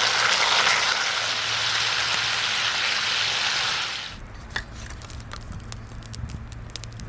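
A steady loud hiss that drops away about four seconds in, leaving quieter wood-fire crackling with scattered sharp pops over a low steady hum.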